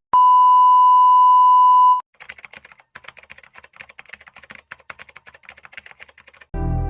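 A loud, steady electronic beep tone lasting about two seconds, followed by several seconds of faint, rapid clicking; music comes in near the end.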